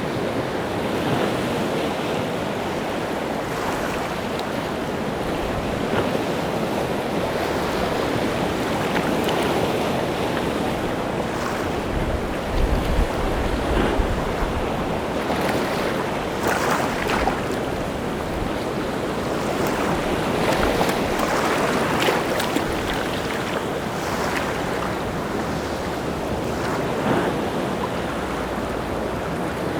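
Rough sea surf breaking continuously on the shore, with louder wave crashes swelling up every few seconds. Wind gusts against the microphone add a low rumble about twelve seconds in.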